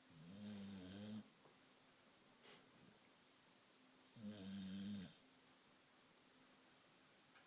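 Australian cattle dog (red heeler) snoring in deep sleep: two soft, low snores, each about a second long, the second about four seconds after the first.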